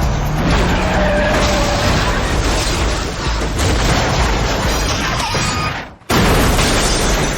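Action-film chase soundtrack: loud booms and crashes over a music score. It fades and drops out for a moment about six seconds in, then comes back suddenly at full loudness.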